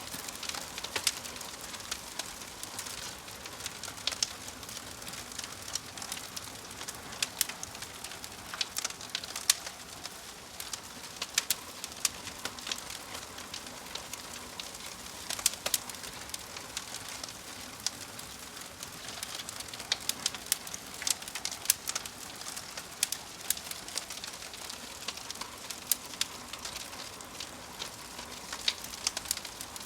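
Wood fire crackling: sharp, irregular pops and snaps over a soft steady hiss.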